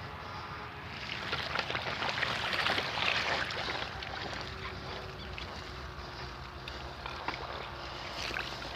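Bicycle riding on a dirt trail: wind rushing over the microphone with the crunch and small rattles of the tyres and frame, louder for a couple of seconds about one second in.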